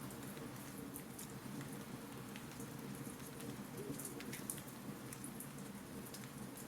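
Fireplace fire crackling: a steady hiss with many small irregular pops and snaps.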